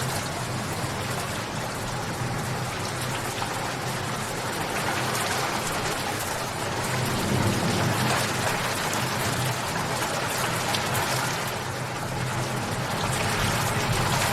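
Steady rainfall, a constant hiss dotted with the small ticks of individual drops, swelling slightly a little past halfway and again near the end.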